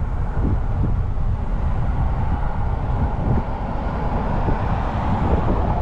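Wind buffeting the microphone during a bicycle ride, over a steady wash of road and passing traffic noise that swells in the second half.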